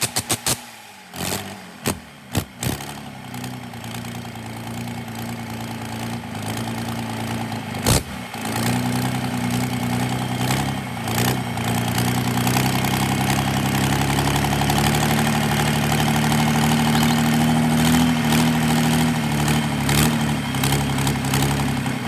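Rebuilt Komatsu D85-21 diesel engine coming to life: a few separate knocks, then an engine note that builds and settles into steady running, with one sharp knock about eight seconds in.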